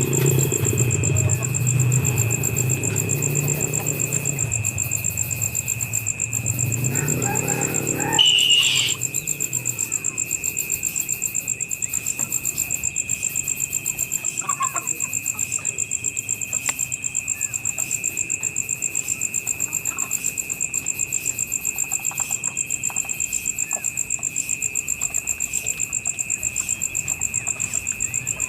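A motor vehicle's engine runs for the first eight seconds and cuts off with a short louder burst about eight seconds in. Under it and after it, insects trill steadily in high, rapidly pulsing tones, with a few faint bird calls.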